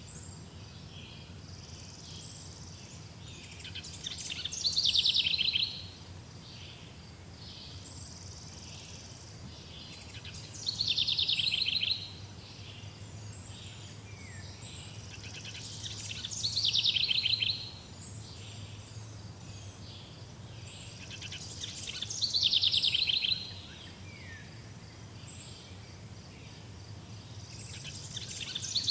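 Birdsong: a bird repeats the same song phrase about every six seconds, each building up and ending in a loud, fast trill, with fainter chirps between the phrases. A steady low hum runs beneath.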